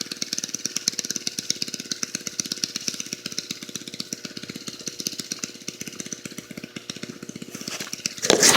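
Honda GX31 mini bike engine running steadily with a rapid, even popping beat, then a brief louder burst near the end. The exhaust is cracked, which the owner says changes the sound.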